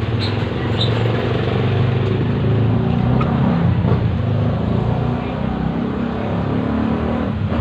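A motor vehicle engine running steadily, a low, even drone that holds through the whole stretch.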